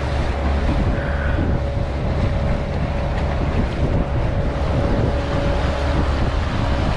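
Motorboat under way: the motor runs with a steady hum under heavy wind buffeting on the microphone and rushing water.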